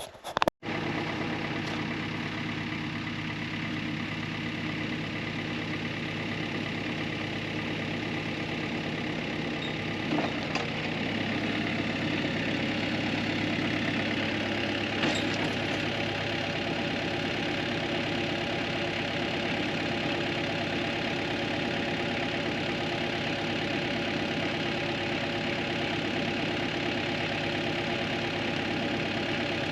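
Engine idling steadily, with a couple of faint clicks and a slight rise in level about a third of the way through.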